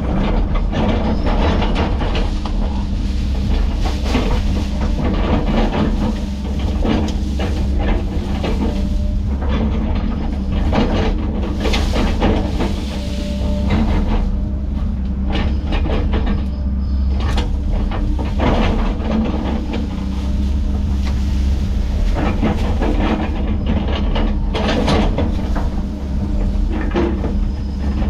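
Heavy diesel machinery running steadily under load, with frequent sharp cracks and clanks over the drone.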